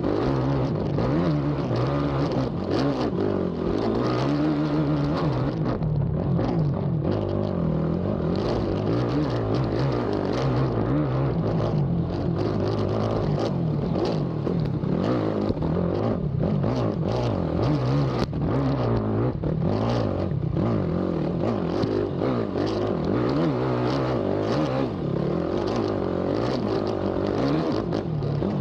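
Race ATV engine revving up and down continuously as the quad is ridden hard over a rough cross-country track, with scattered knocks and clatter from the machine bouncing over the terrain.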